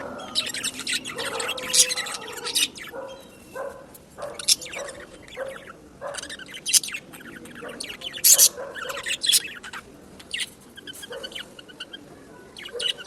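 Pet budgies (budgerigars) chirping and chattering: a run of short, high, irregular chirps throughout.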